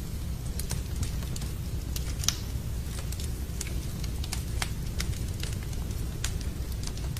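Fireplace wood fire crackling: irregular sharp pops and snaps, one louder pop a little over two seconds in, over a steady low rumble.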